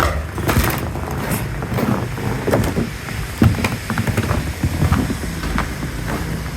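Wind rumbling on the microphone, with irregular crunches and knocks scattered through it.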